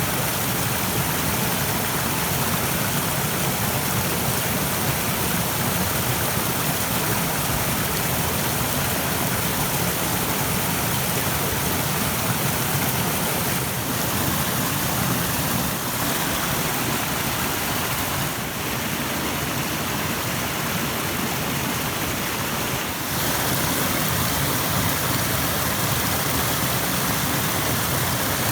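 Rushing stream: water running fast over rocks in a steady, dense wash.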